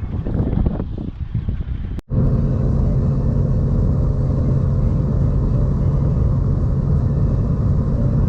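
A car engine running at a steady speed with a constant drone and road rumble. It starts abruptly at a cut about two seconds in, after a short stretch of uneven noise.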